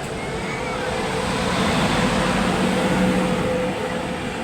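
Train moving past, hauled by an electric locomotive, its rumble building to a peak about three seconds in and then easing, with a steady hum under it.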